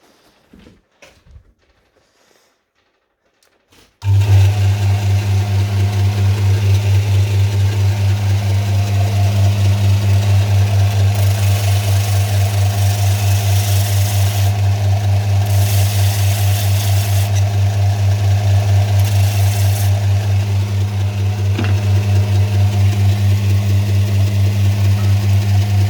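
Kraton WMS-350-150 bench sanding machine switched on about four seconds in, its electric motor then running with a loud, steady low hum and a fast pulsing. Several stretches of added high hiss come and go over the hum.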